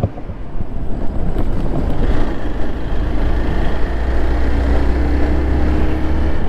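Motorcycle engine running as the bike gets under way and gathers speed, its pitch climbing slowly, with wind rumbling on the microphone.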